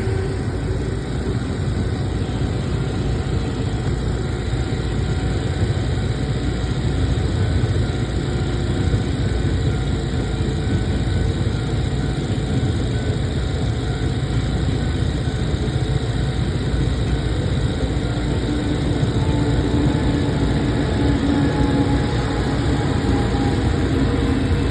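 Taiwan Railway E500 electric locomotive hauling a Tze-Chiang express into a station: a steady loud rumble of wheels on rail and running gear, with a low hum joining in over the last few seconds.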